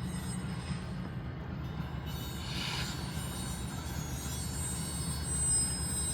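A passing train's steady low rumble, with a brief rise of hiss about two and a half seconds in.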